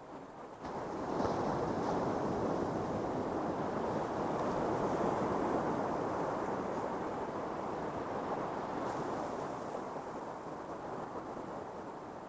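Ocean surf on a beach: a wave breaks just under a second in, and its wash slowly fades away.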